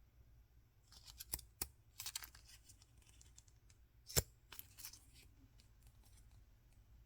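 Toy packaging being opened by hand: a run of crisp clicks and rustles, then one sharp snap about four seconds in and a few lighter clicks after it.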